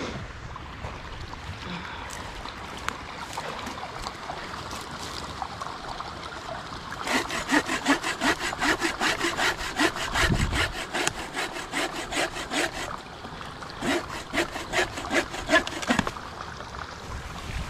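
Hand saw cutting through a piece of wood in quick back-and-forth strokes, about four a second, starting about seven seconds in, with a short pause before a last run of strokes.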